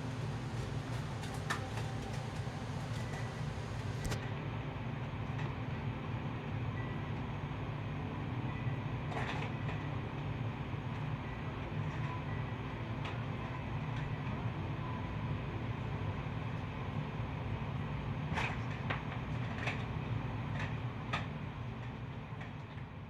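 A steady low hum with scattered faint clicks and taps, a few of them bunched together late on; the sound fades out at the very end.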